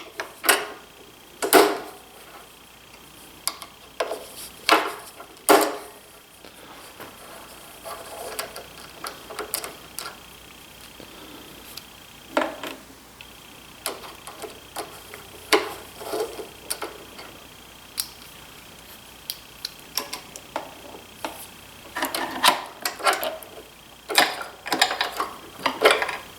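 Scattered metallic clicks, knocks and clinks of a hand driver with a hex bit and small metal parts being handled while screws are taken out of the planer's cutter-head shaft end. Louder clusters of rattling come about halfway through and again near the end.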